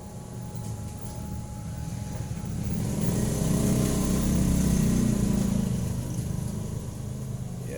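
A motor vehicle passing by: its engine hum swells to a peak about four to five seconds in, then fades away.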